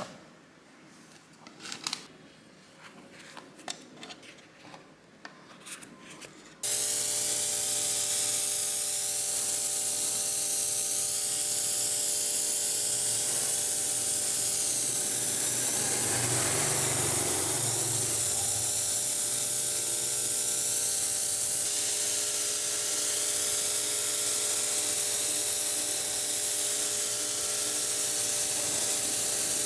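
A few light clicks and handling taps, then about six and a half seconds in an electric power tool switches on and runs steadily: a loud hissing whir over a constant hum.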